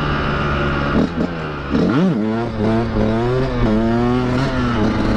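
Two-stroke dirt bike engine on the move. It runs steadily, drops off the throttle about a second in, then revs sharply about two seconds in, and the revs rise and fall several times before settling.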